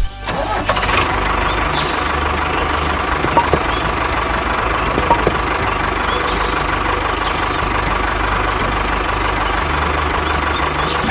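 A motor running steadily, with a constant whine over a low hum, stopping abruptly at the end.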